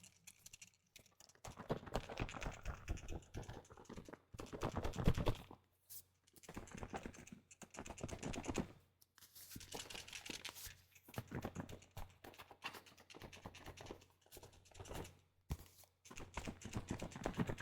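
Close-miked bursts of crackling, clicking liquid and foam, a second or so each with short pauses between, as a container of foamy liquid under pressure is worked.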